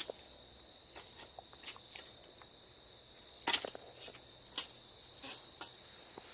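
Dry sticks and twigs snapping in sharp, separate cracks, about seven in a few seconds, the loudest about three and a half and four and a half seconds in. A faint steady high-pitched tone runs underneath.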